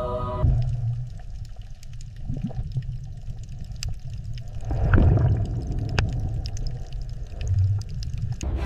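Underwater ambience: a steady low rumble with scattered clicks and a louder, bubbling swell about five seconds in. Background music cuts off about half a second in.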